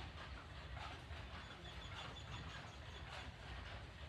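Water splashing and trickling onto plant leaves, with irregular small patters over a low steady rumble.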